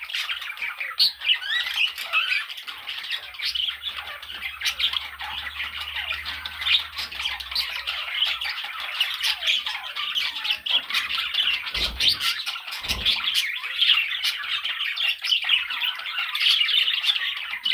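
Budgerigars chattering: a continuous, dense stream of short chirps, warbles and squawks. Two brief low thumps come about two-thirds of the way through.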